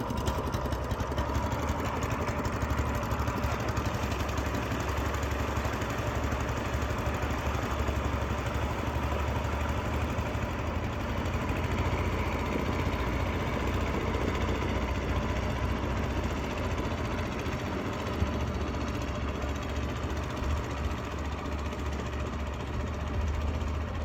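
Hired river boat's engine running steadily at an even pitch, with a low rumble.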